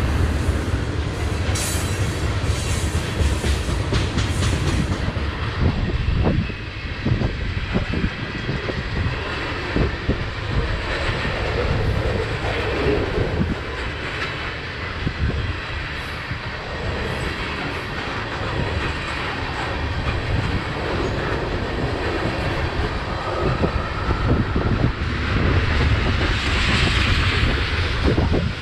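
Freight train cars rolling past at track side, a steady rumble with the rapid clickety-clack of wheels over rail joints.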